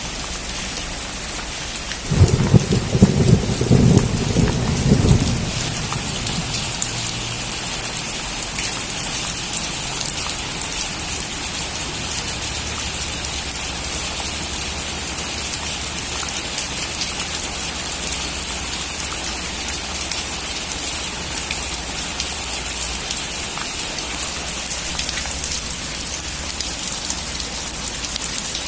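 Heavy rain drumming steadily on a metal roof, with a roll of thunder rumbling loudly for a few seconds about two seconds in.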